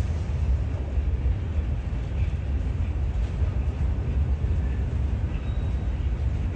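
Freight train of boxcars rolling past at steady speed, giving a continuous low rumble with no distinct clanks or horn.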